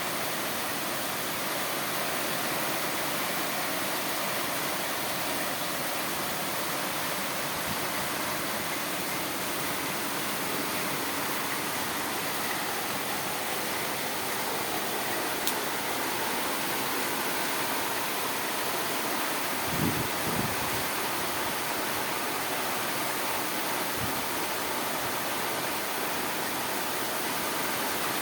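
Heavy rain falling steadily, an even hiss. A few brief low thumps sound about twenty seconds in.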